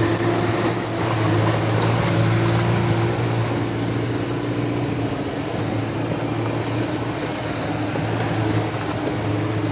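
Off-road vehicle engine running steadily with a low, even hum, with a short click about seven seconds in.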